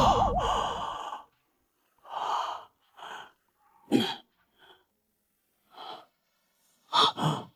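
A man breathing hard: a handful of short, separate heavy breaths or gasps with silent gaps between them.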